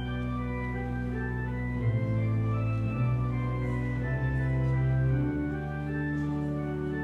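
Church organ playing sustained chords over held bass notes, the bass changing a few times.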